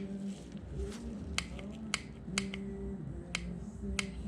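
Click-type torque wrench and socket working fasteners up to 11 newton metres, giving several sharp single clicks spaced about half a second to a second apart.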